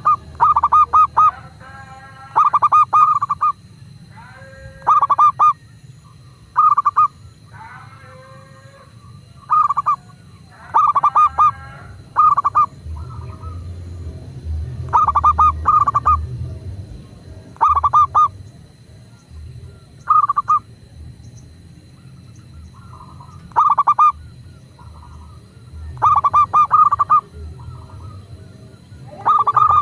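Zebra doves (perkutut) singing: short staccato cooing notes in quick clusters of two to four, repeated every couple of seconds, with softer gliding calls between them, over a low steady rumble.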